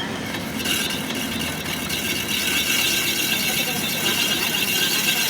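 Steady rasping noise of a tool working on metal, starting about a second in.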